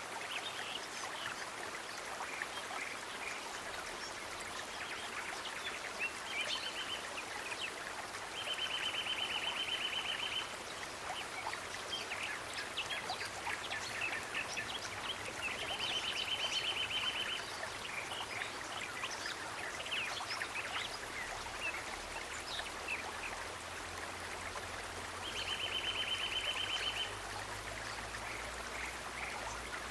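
Nature ambience of steady running water with scattered short chirps. A rapid, even trill of about two seconds repeats three times.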